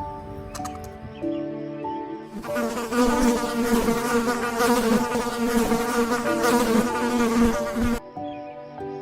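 Soft background music with sustained notes, then from about two and a half seconds in a loud, wavering buzz of a flying insect for about five and a half seconds, cutting off suddenly.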